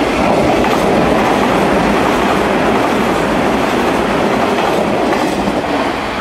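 Hanshin 9000 series electric train passing through a station close by: a loud, steady rumble of wheels on rail and running gear, fading near the end.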